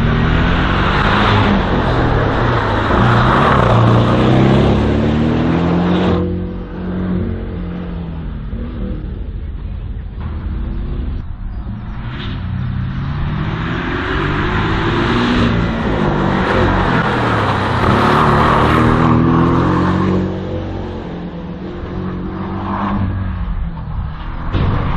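Race car engine driven hard through an autoslalom course, the revs climbing and dropping again and again as it accelerates, shifts and brakes. It is loudest in the first six seconds and again around the middle.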